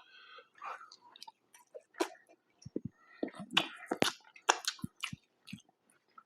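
A person chewing a mouthful of burger close to the microphone: irregular wet clicks and smacks of the mouth, busiest about halfway through.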